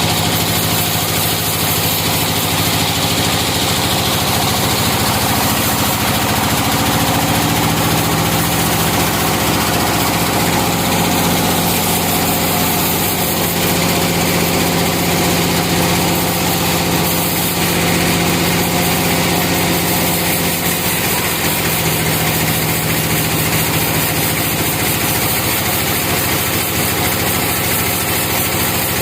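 Sawmill's engine running steadily with a continuous drone, its note shifting slightly and growing a little stronger through the middle.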